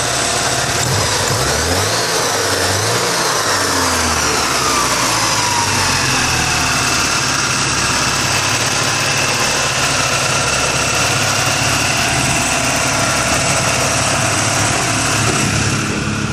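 Porsche 944 inline-four engine, heard from the open engine bay. It is blipped twice in quick succession by hand at the throttle linkage about two seconds in, then its pitch falls back over a few seconds to a steady idle.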